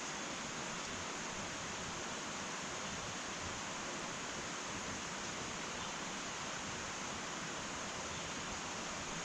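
Wood fire burning in an irori sunken hearth: a steady, even hiss with no distinct crackles.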